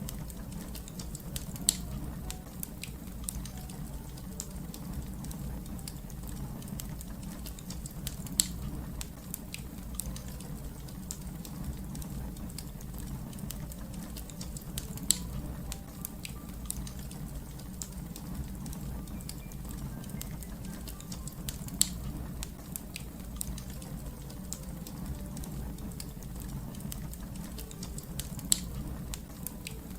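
Wood fire crackling steadily over a low rumble of flames, with many small snaps and a loud pop about every seven seconds.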